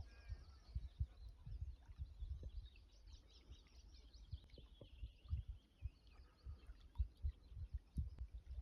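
Faint birdsong: many short chirps and twitters, with irregular low thumps underneath.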